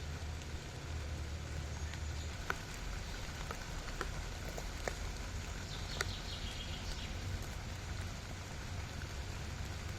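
Rain pattering steadily, with separate drops ticking now and then.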